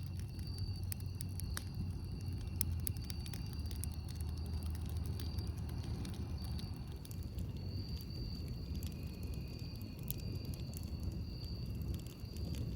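Campfire crackling: irregular sharp pops and snaps over a low, steady rumble of the burning fire, with a faint high steady tone coming and going in the background.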